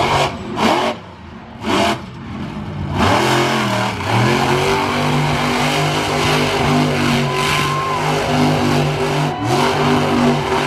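A large vehicle engine revs. A few short loud blasts come in the first two seconds, then the engine rises in pitch about three seconds in and holds at high, fairly steady revs with small rises and dips.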